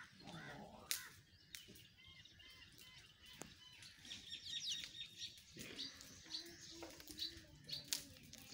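Faint chirping of small birds, with a few sharp clicks mixed in.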